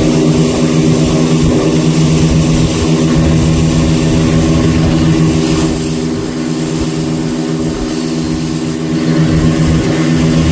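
Fishing boat's engine running steadily, loud and close, easing off slightly for a few seconds in the middle before picking up again.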